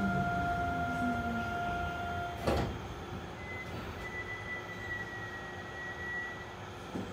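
Astram Line 6000-series rubber-tyred train braking: the steady whine of its high-frequency shunt chopper and a falling motor tone stop about two and a half seconds in with a clunk as the train comes to a halt. Quieter running noise and a faint high tone follow.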